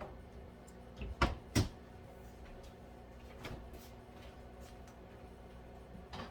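Refrigerator door being opened and shut: a few short knocks and clunks close together, then a fainter knock and some handling near the end.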